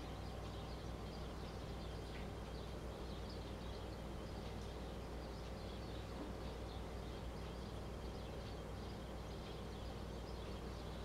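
Birds chirping faintly, with many short, high chirps scattered throughout over a steady low hum.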